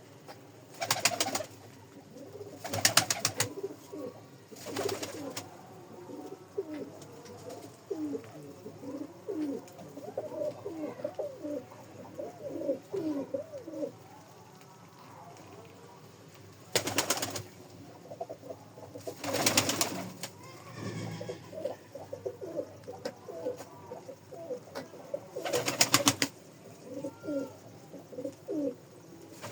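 Karak pigeons cooing in repeated short calls, several birds at once in the middle stretch and again in the second half. Six loud, about one-second bursts of rustling noise break in, near the start, about a quarter of the way in and in the second half, and they are the loudest sounds.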